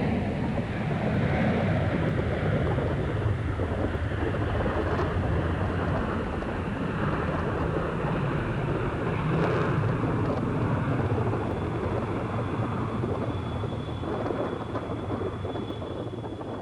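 Jet airliner departing at takeoff power: a steady, deep engine noise that slowly fades toward the end. A faint, thin high whine comes in about two-thirds of the way through.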